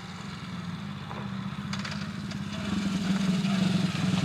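Small single-cylinder four-stroke engine of a 125cc semi-automatic pit bike running at a steady pitch, getting clearly louder about halfway through.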